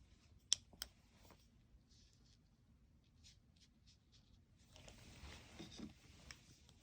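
Faint scratching strokes of a painting brush on paper, with two sharp clicks about a third of a second apart near the start.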